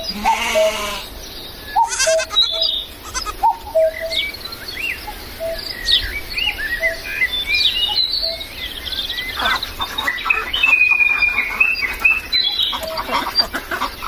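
A goat bleating twice near the start, a wavering, quavering call, followed by many short, high chirps of small birds.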